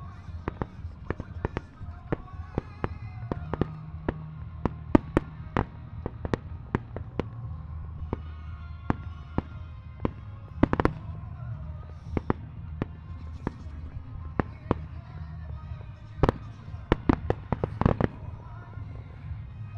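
Fireworks shells bursting in quick succession, many sharp bangs with clusters about halfway through and near the end, over music playing along with the display.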